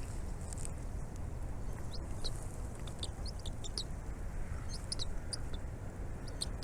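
Birds chirping in quick clusters of short, high notes through the second half, over a steady low rumble of wind on the microphone.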